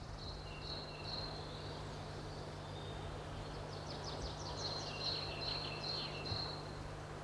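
A songbird singing: short high notes in the first second, then a quicker run of repeated chirping phrases through the middle, over a faint outdoor background with a steady low hum.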